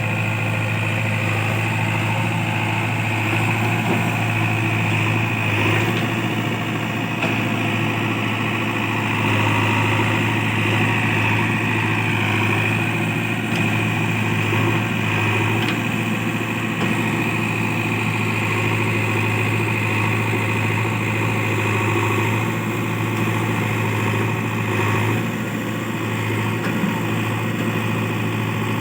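Heavy diesel engine running steadily at a low, even speed, with no revving.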